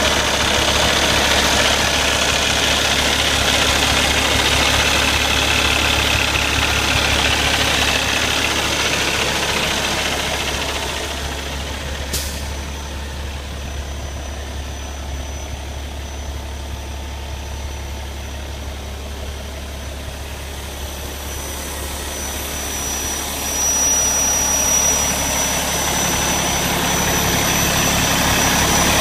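Cummins ISX straight-six diesel in a Peterbilt 389 highway tractor running at idle, a steady low drone. There is a single sharp click about twelve seconds in, the sound grows quieter in the middle, and a thin high whine comes in near the end.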